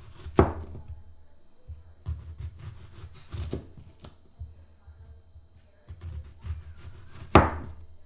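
Knife cutting a red onion: runs of quick, light knocks of the blade, with three louder sharp strikes, about half a second in, at three and a half seconds, and near the end.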